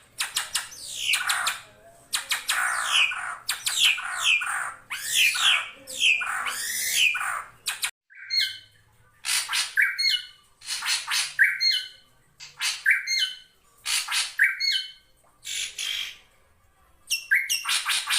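Drongo calling: harsh, scratchy calls with quick down-slurred notes crowd the first half. Then, after an abrupt cut, come separate calls about every second and a half, each a high note dropping to a lower one.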